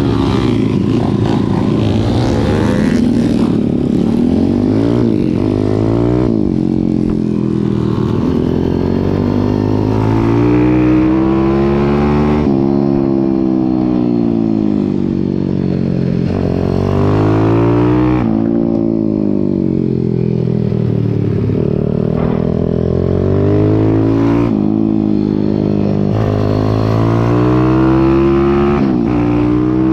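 Pit bike's single-cylinder engine heard onboard during a race. It revs up and drops back again and again, a rise every few seconds, as the rider accelerates out of corners and brakes into them.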